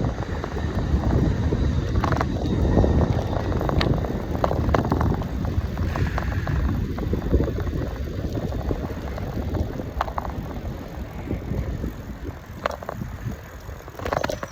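Strong wind buffeting the microphone as a cyclist rides into a headwind: a gusting rumble that eases toward the end, with a few light clicks.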